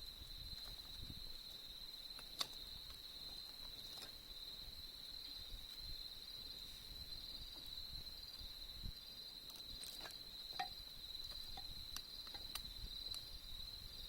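Autumn insects, crickets, trilling steadily at one high pitch, with a few sharp crackling pops from a campfire, the loudest a couple of seconds in and a cluster near the end.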